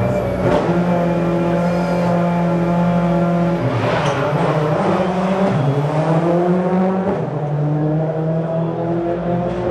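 WRC rally car engine running hard, holding its pitch, dropping about three and a half seconds in and rising again later. Two sharp cracks come through, one near the start and one about four seconds in.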